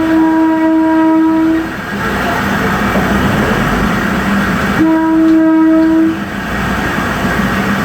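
Train horn sounding two long blasts, one at the start and another about five seconds in, each lasting about a second and a half, over the train's steady running noise.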